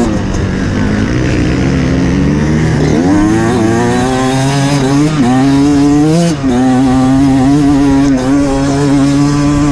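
Off-road motorcycle engine running under load. Its revs climb about three seconds in and hold high, with two brief dips in the middle where the throttle comes off or a gear changes.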